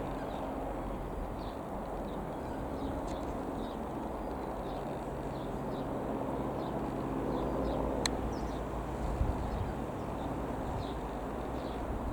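Piper PA-28R-201 Arrow's single piston engine droning steadily as the light aircraft flies over, swelling slightly about two-thirds of the way through. Small birds chirp throughout, and there is a sharp click about 8 seconds in.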